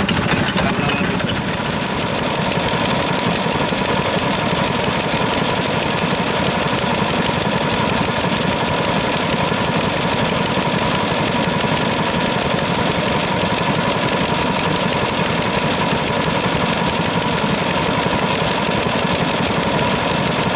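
Vintage stationary engine running steadily with a fast, even beat, and a faint steady whine over it.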